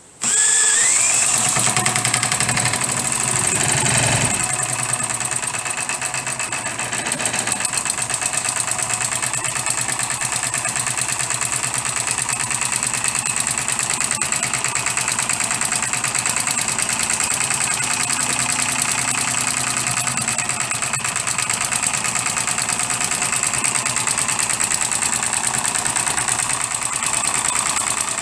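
Custom-built 12cc direct-injection model diesel engine bursting into life and quickly speeding up in the first second, then running loudly and steadily with a fast, even firing beat.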